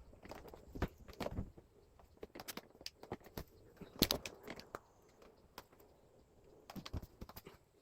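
Irregular light clicks and knocks from parts of a wall-mounted air conditioner being handled during disassembly, the loudest about four seconds in, with a short lull after it.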